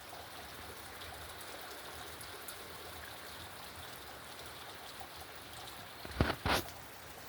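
Steady rush of running water, like a stream. Two short loud knocks or bumps come close together near the end.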